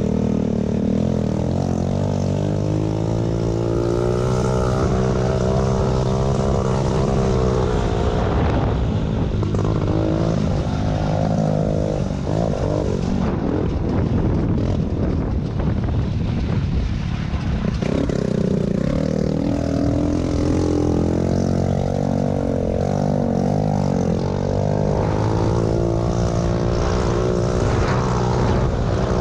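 Several small pit bike engines running together during a race, overlapping and rising and falling in pitch as the riders work the throttles.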